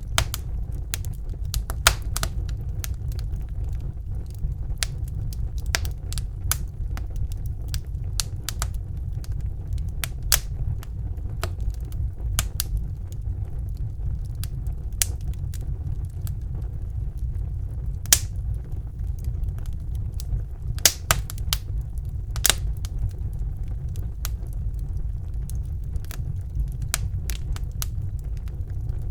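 Wood fire burning in a fireplace: a steady low rumble of flames under irregular crackles and pops, with a handful of louder snaps scattered through.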